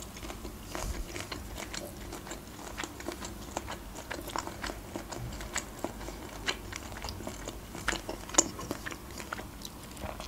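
A person chewing boiled shrimp close to the microphone: a run of small, irregular mouth clicks and smacks.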